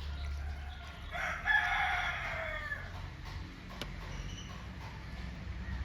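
A rooster crowing once, starting about a second in and lasting under two seconds, ending on a falling note, over a steady low hum. There is a single sharp click a little later.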